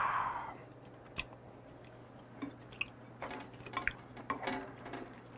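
Close-miked mouth sounds of a man chewing aged kimchi, quiet and wet, with a breath out at the start. Small clicks of chopsticks and a spoon against the plates come about a second in, then scattered through the middle.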